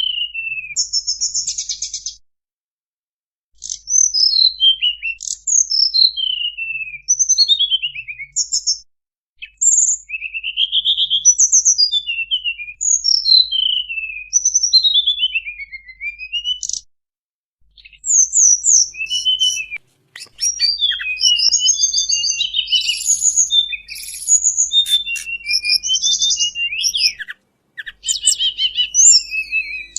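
Tledekan bambu lure-call song: a run of clear whistled phrases with sliding, mostly falling notes, broken by short pauses. From about two-thirds of the way in, the song turns into a denser, faster chattering.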